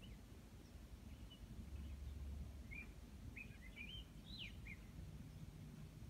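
Faint bird chirping: scattered short high chirps, with a quick run of them about three to five seconds in, over a low steady hum.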